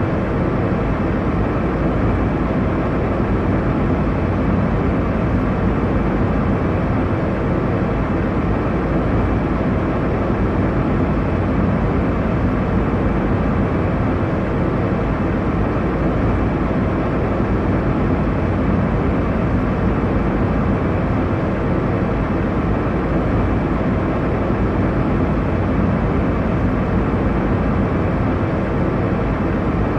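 Airliner cabin noise in flight: a steady, even rushing hum of engines and airflow, strongest in the low end, with no changes or events.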